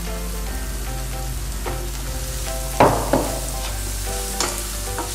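Tomatoes and onions sizzling as they fry in a pan while a spatula stirs them. A few sharp knocks of a utensil against the pan stand out, the loudest about three seconds in.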